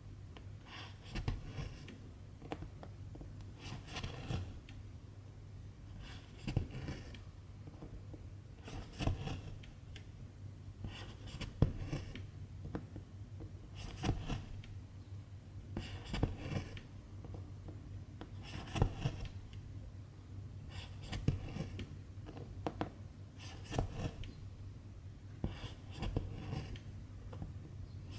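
Hand cross-stitching: silk thread pulled through 11-count fabric in a short swish about every two and a half seconds, with small ticks from the needle, over a faint steady hum.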